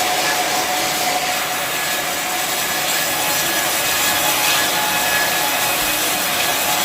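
Bandsaw sawmill blade cutting steadily through a teak log: a continuous loud rasping hiss with a faint steady whine.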